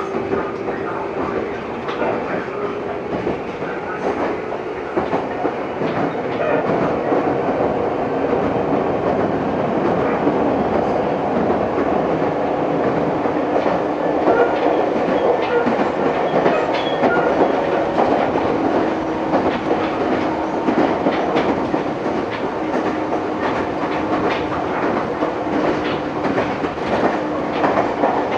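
Meitetsu 6000-series electric train running along the line, heard from inside the car: a steady rumble of wheels on rail with scattered clicks over rail joints and a faint steady hum. It grows a little louder after about six seconds.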